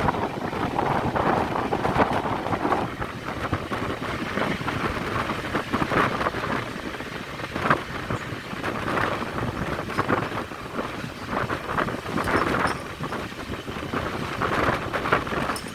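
Passenger train running past: a continuous rumble of wheels on rail with irregular clanks, and wind buffeting the microphone.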